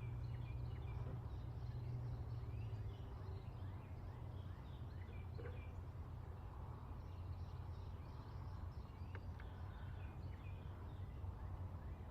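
Many small birds chirping over a steady low hum.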